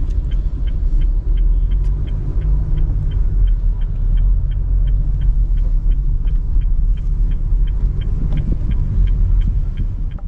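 Loud, steady low rumble of a road vehicle in motion, with a light, regular high ticking about four times a second.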